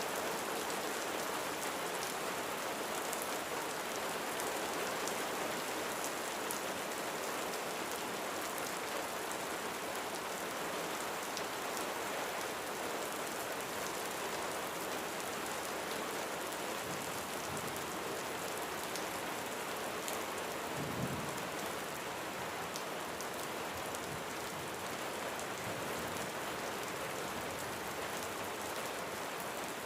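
Steady rain falling, an even hiss with scattered drops pattering. A brief low thump about two-thirds of the way through.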